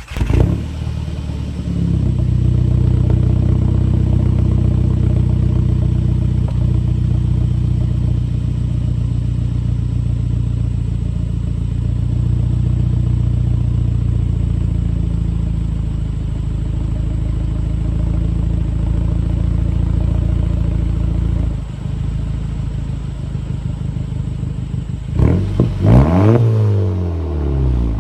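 Volkswagen Mk5 GTI's turbocharged four-cylinder through a straight-piped exhaust with the muffler and resonator deleted: it catches at the start and idles steadily, loud and raspy. The idle drops a little about three-quarters of the way through. Near the end come a couple of quick revs that rise and fall.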